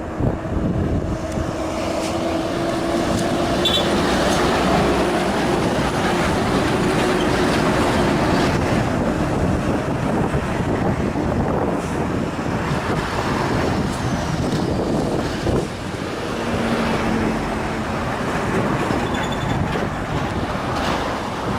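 Heavy truck engine running steadily, with a continuous mechanical and road-noise rumble.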